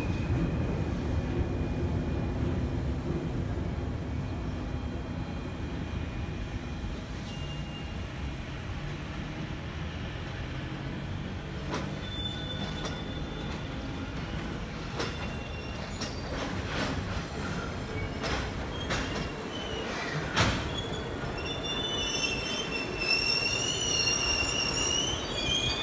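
JR Freight HD300 hybrid shunting locomotive hauling empty container flat wagons slowly through the freight yard. A low running rumble is followed by scattered sharp clicks of wheels crossing rail joints and points, and in the last few seconds by high wheel squeal.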